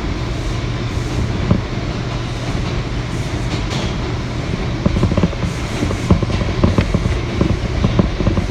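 R179 subway train running at speed through the tunnel, heard from inside the car: a steady low rumble with quick wheel clicks over the rail joints, which come thicker and louder from about five seconds in.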